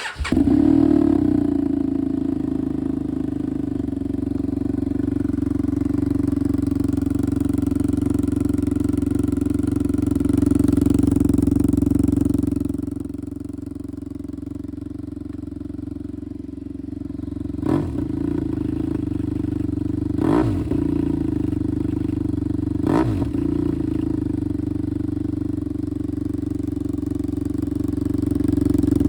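BMW F800R parallel-twin motorcycle engine breathing through an aftermarket SC Project-style slip-on muffler: it starts up and idles steadily, then gets three quick throttle blips about two-thirds of the way through.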